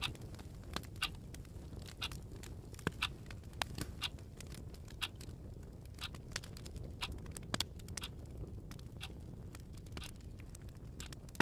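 Wood fire crackling: irregular, sharp pops and ticks over a faint low rumble.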